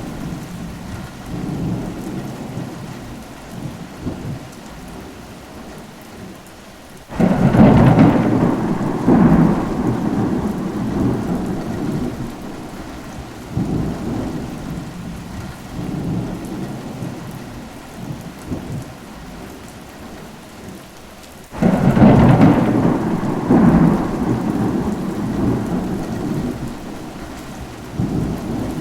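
Steady rain during a thunderstorm. Thunder breaks in suddenly and loudly twice, about seven seconds in and again about twenty-one seconds in, each time rolling on for several seconds before fading, with lighter rumbles in between.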